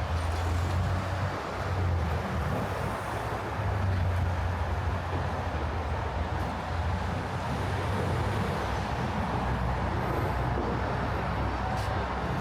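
Manhattan avenue traffic: a steady low rumble of vehicle engines over constant road noise.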